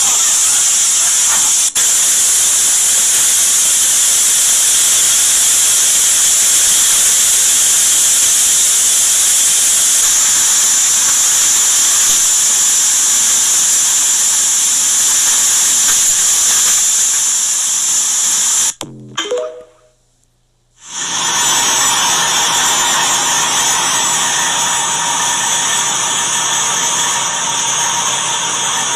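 Loud, steady rushing noise of storm wind and rain on the microphone during a tornado, broken by a short cut near two seconds in and a silent gap of about two seconds past the middle before the rushing starts again.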